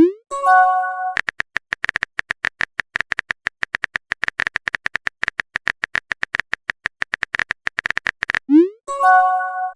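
Rapid smartphone keyboard typing clicks, broken twice by a messenger sound: a short rising swoop followed by a brief chime of several notes. The first comes at the start, the second near the end.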